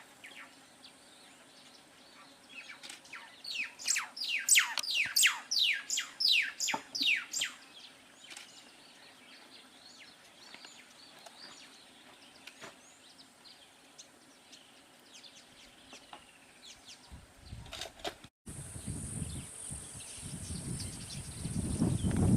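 A bird calling a quick run of about a dozen downward-sweeping whistled notes, then fainter scattered calls, over a steady high-pitched insect drone. Near the end the drone grows louder and a low rumbling noise comes in.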